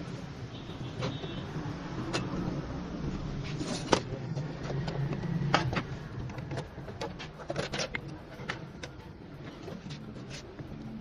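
Scattered sharp clicks and knocks, a dozen or so at uneven intervals, over a steady low hum. The loudest knocks come about four and five and a half seconds in.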